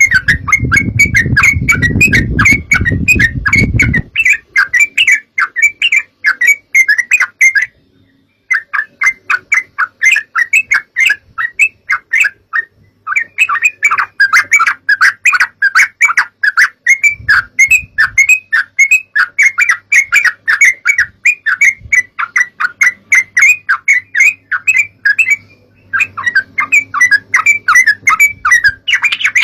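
Yellow-vented bulbul (trucukan) song: a fast, dense run of chattering notes, played as a bird-lure recording, with brief pauses about 8 and 13 seconds in and again near the end. A low rumble sits under the song for the first few seconds.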